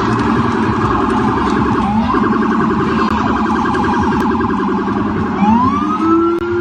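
Police car siren wailing, its pitch sweeping upward three times with a fast pulsing yelp between the sweeps.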